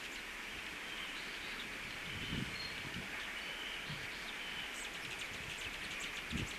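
Outdoor ambience at a bird feeder: small birds chirping briefly over a steady hiss, with a couple of soft low thumps, one about two and a half seconds in and one near the end.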